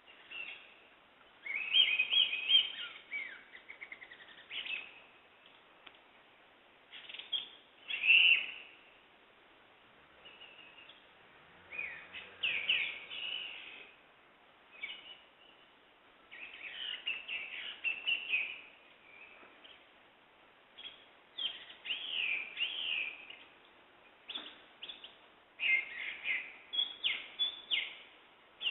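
Songbirds singing and chirping: short bursts of high chirps and whistled phrases, coming every second or two with brief lulls between them.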